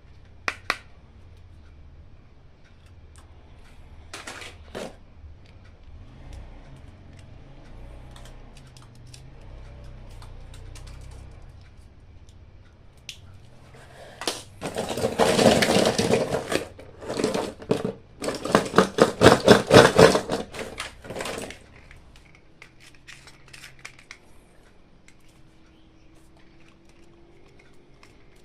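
Hands handling a toy and its packaging: a few scattered clicks and taps, then about seven seconds of loud scratchy rustling and rattling in quick repeated strokes, which stops abruptly.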